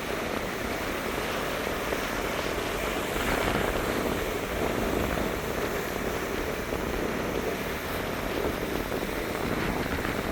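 Soft sea waves washing onto a beach: a steady rush that swells a little twice.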